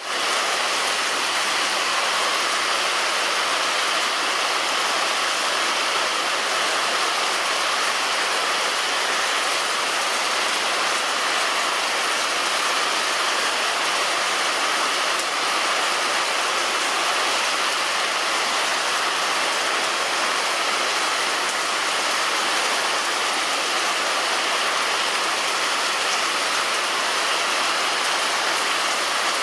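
Heavy rain falling on a roof: a steady, even hiss with no let-up.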